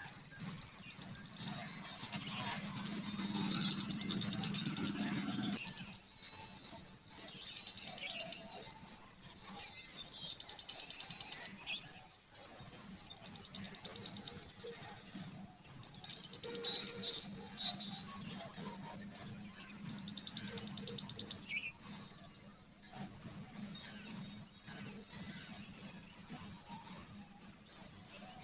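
High-pitched chirping: runs of short, quick chirps broken every few seconds by buzzy trills that last a second or two.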